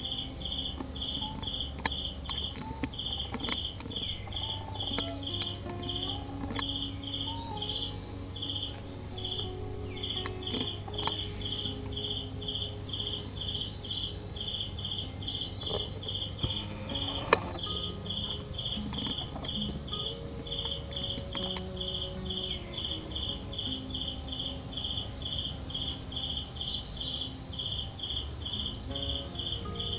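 Insects chirping: a cricket-like call pulsing about twice a second over a continuous high buzz. A single sharp click sounds about halfway through.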